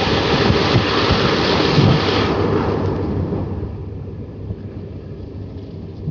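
Running noise of a passenger train carriage heard at an open window: wheels rumbling on the rails with rushing air. It is loud at first, then drops to a quieter rumble about halfway through.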